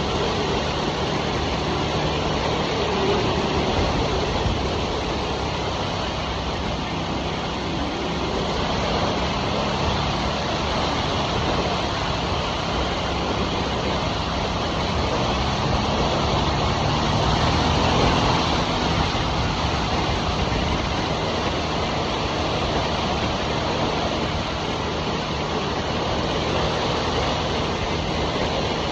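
2023 Harley-Davidson Nightster's Revolution Max V-twin running steadily while cruising, mixed with wind and road rush.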